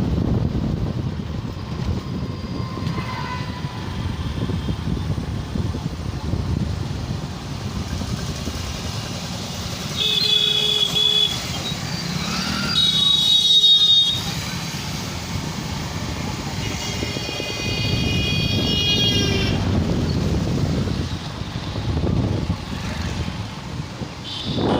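Busy town-street traffic heard from a moving motorcycle: a steady low rumble of engines and road, with vehicle horns honking three times, about ten seconds in, again around thirteen seconds, and a longer one held for about two seconds near eighteen seconds.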